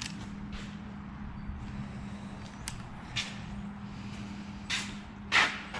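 A steady low machine hum, with a few short clicks and rustles scattered through it.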